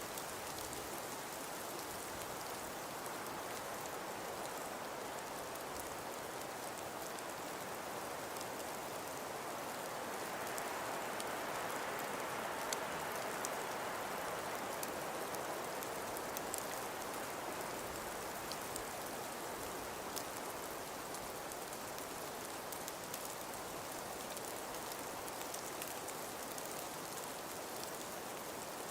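Wind-blown snowfall: a steady, even hiss that swells in a gust around the middle, with faint scattered ticks.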